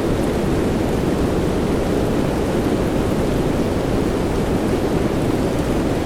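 Soft rain mixed with white noise: a steady, muffled hiss weighted toward the low end, with no distinct drops and no change in level.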